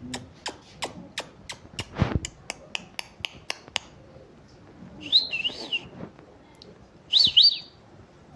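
Pet parrot calling: two short, high, wavering chirps a couple of seconds apart in the second half, preceded by a quick run of sharp clicks, about three or four a second, with one louder thump.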